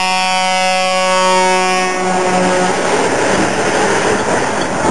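Truck air horn held in one long, steady blast that cuts off about halfway through, leaving a steady noisy din.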